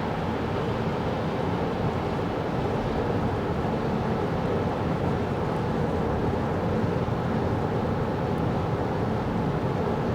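Steady road and tyre noise of a 2024 Kia Carnival Hybrid minivan driving, even and unbroken.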